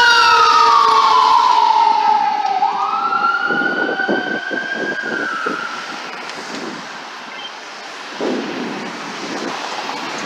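Fire engine's wail siren sliding down in pitch and then sweeping back up, fading as the truck moves away, with a burst of road noise near the end.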